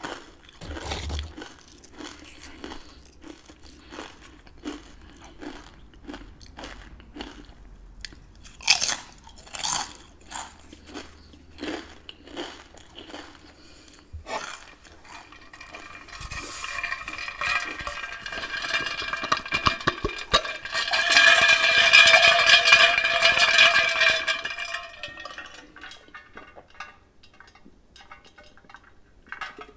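Close-up chewing of crunchy chips, repeated crunches roughly every half second to a second. About halfway through, the crunching gives way to a louder, sustained sound with a steady ringing pitch that lasts several seconds, then fades to a few soft clicks.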